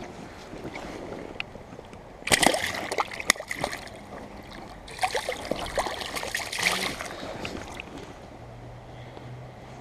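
A freshly caught rainbow trout thrashing and splashing in shallow creek water, in two bursts of a second or two each, against the steady hiss of the stream.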